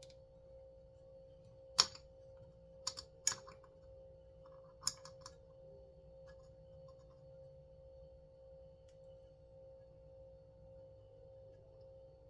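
A handful of sharp clicks and taps come from small parts of a chainsaw recoil starter being handled and fitted, about five in three seconds, the loudest near the start. A steady high hum runs underneath.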